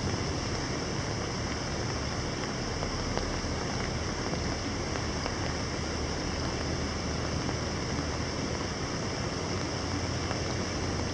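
Steady summer rain falling on canal water: an even hiss with a few single drop ticks, over a low, steady hum of distant city traffic.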